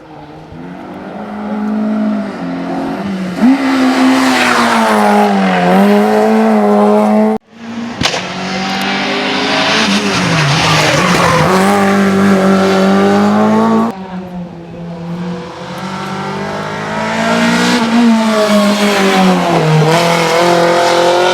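Race cars on a hillclimb, engines revving hard, the pitch dipping and climbing repeatedly through gear changes and corners. Three separate clips, each cut off abruptly, the first about seven seconds in and the second about fourteen seconds in.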